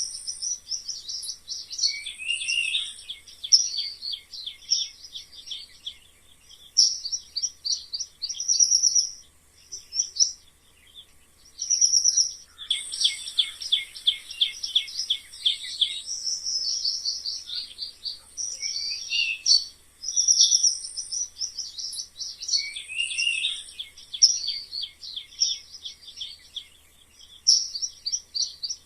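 High-pitched animal chirping and squeaking, in rapid trilled phrases that repeat every few seconds; some notes glide downward.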